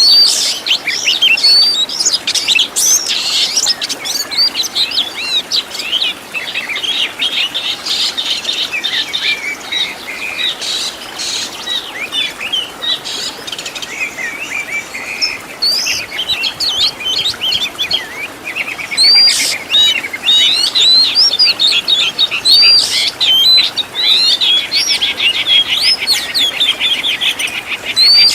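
Oriental magpie-robin (kacer) singing a continuous, varied song of quick whistles and chirps, with fast trills in the second half.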